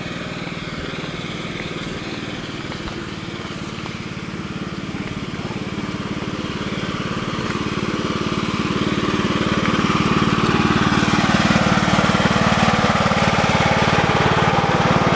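Tractor engine running with an even pulse, getting louder from about six seconds in and then holding steady at the higher level.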